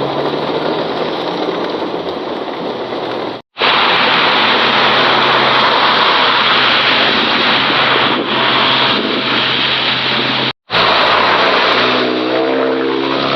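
Heavy rain and water hiss with a vehicle engine running under it; near the end an engine revs up with a rising pitch. The sound drops out abruptly twice for an instant.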